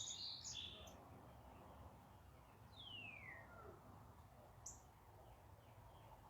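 Faint wild birdsong in a back yard: a few quick high chirps at the start, then a single clear whistle sliding downward in pitch about three seconds in, and one short high note a little later.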